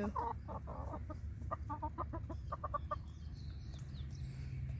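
Chickens clucking, a quick run of short clucks over the first three seconds that then dies away, over a steady low background rumble.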